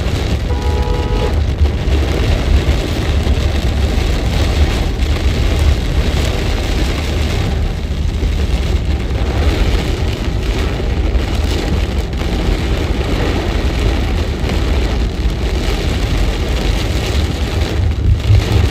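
Heavy rain falling, a steady loud hiss over a constant low rumble, with a short pitched tone about half a second in.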